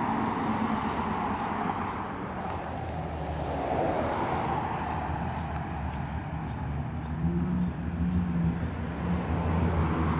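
Holden VF Commodore SS and HSV VF Clubsport V8s driving slowly past one after the other, engines running low under tyre and road noise. The engine note grows stronger in the second half.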